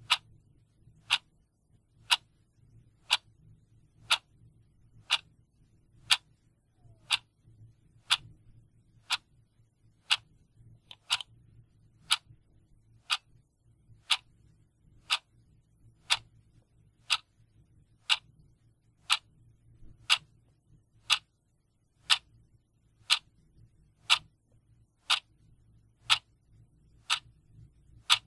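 Clock ticking steadily at about one tick a second, each tick a short sharp click, over a faint low hum.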